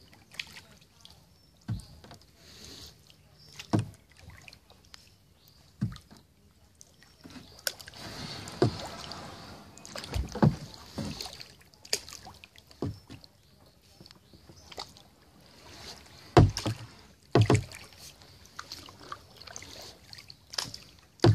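Kayak paddling: paddle strokes in the water with sharp knocks, about one every two seconds at first, then a stretch of water rushing and splashing, with the loudest knocks a little past the halfway mark.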